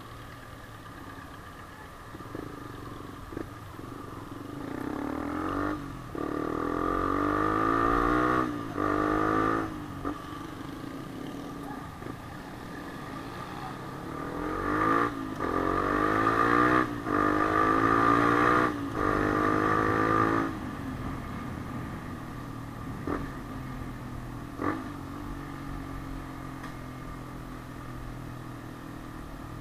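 Yamaha Sniper 150's single-cylinder four-stroke engine accelerating hard through the gears: the pitch climbs, drops briefly at each upshift, and climbs again, in two runs through the middle. It then settles to a steadier cruise.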